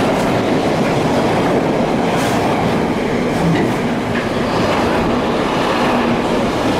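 Container freight train wagons passing close by at speed: a steady, loud rolling rattle of wheels and wagons, with a few sharp clicks.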